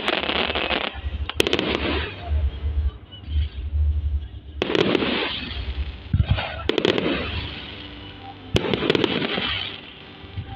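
Fireworks display with aerial shells bursting one after another. There are about five sharp reports, near the start, around a second and a half in, about four and a half seconds in, around six and a half seconds in and about eight and a half seconds in. Each report trails off into crackling.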